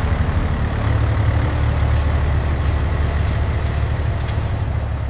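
A heavy vehicle engine running steadily with a deep low note, easing off near the end, with a few faint clicks over it.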